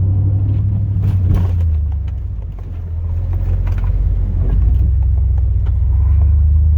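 A 2002 Chevrolet Silverado's 8.1-litre big-block gas V8 running under load while plowing, heard as a low drone inside the cab. The drone eases off about two and a half seconds in, then builds again.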